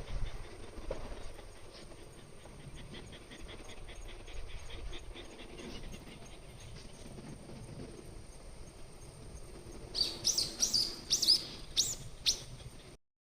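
A bird calling outdoors: a quick run of sharp, high calls, each sweeping down in pitch, starting about ten seconds in, over a faint background hush.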